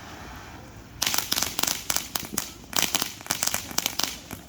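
Fireworks crackling: a rapid, dense run of sharp pops that starts about a second in and keeps going.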